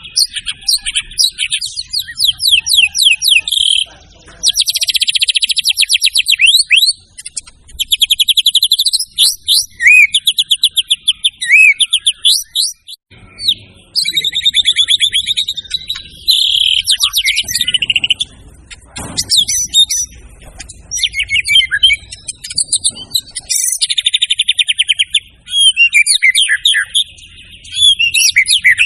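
White-rumped shama (murai batu) singing at full volume, phrase after phrase of rapid trills and whistled, sliding notes with short pauses between, a varied song full of learned imitations.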